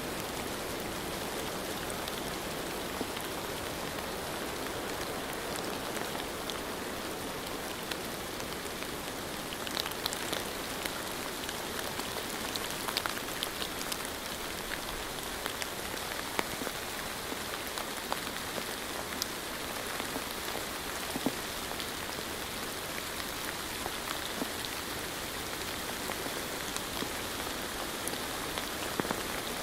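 Steady rain falling, with scattered sharper taps of single drops, a few more of them in the middle.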